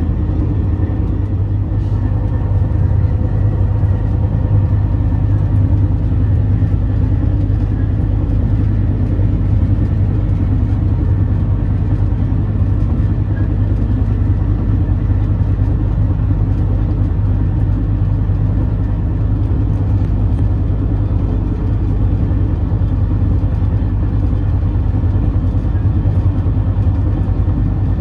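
Steady low rumble of an overnight sleeper train, even throughout, with a faint steady hum above it.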